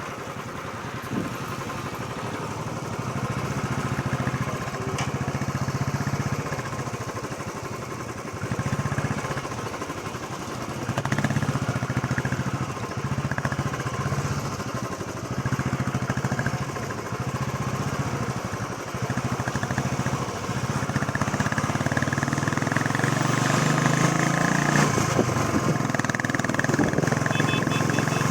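Royal Enfield Classic 350 single-cylinder motorcycle engine running on the road. Its note swells and drops every few seconds as the throttle opens and closes.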